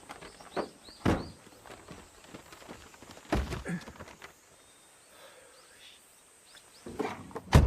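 A few dull thumps or knocks, the loudest near the end, with faint short high chirps about a second in.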